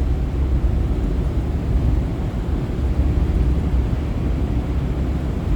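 Steady low rumble of a ferry underway, with wind buffeting the microphone on the open deck.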